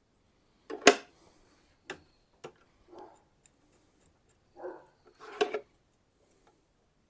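Irregular sharp clicks and knocks from handling and adjusting a Tormek knife-sharpening jig and its angle setting, the loudest about a second in, with a few brief rubbing sounds between them.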